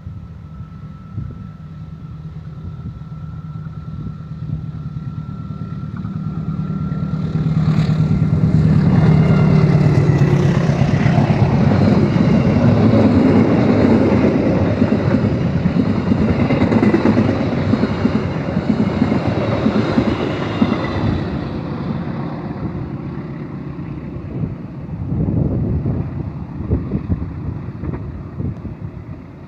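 Train passing at close range: a low engine hum builds into a loud rumble and rattle of wheels and wagons, then fades away, with a brief smaller swell near the end.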